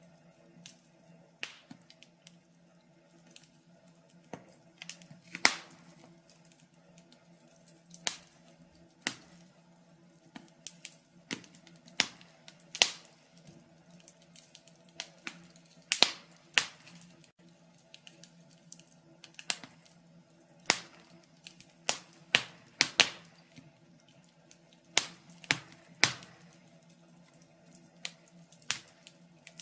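Log fire crackling in a fireplace: irregular sharp pops and snaps, a few loud ones standing out, over a faint steady low hum.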